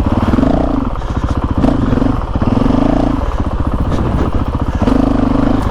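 Honda CRF450RL's single-cylinder four-stroke engine running under way, a rapid throb that rises in spurts as the throttle is opened and closed.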